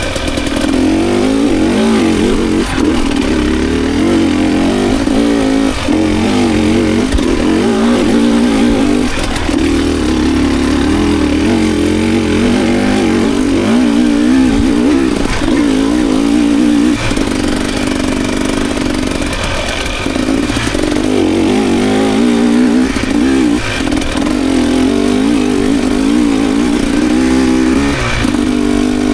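Dirt bike engine revving up and down without a break as it is ridden, its pitch rising and falling with the throttle, with brief throttle lifts every few seconds.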